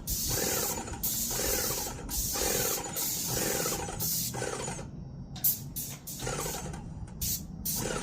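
Paint sprayer triggered in repeated bursts of spray hiss with a chattering mechanical buzz under each, about four bursts of just under a second each, then shorter, quicker ones in the second half.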